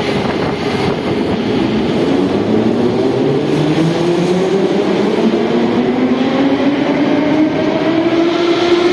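Metro train accelerating: the traction motors' whine rises steadily in pitch over the steady running noise of the train.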